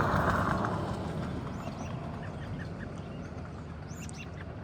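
A vehicle passing, loudest at the start and fading away, with birds calling through it.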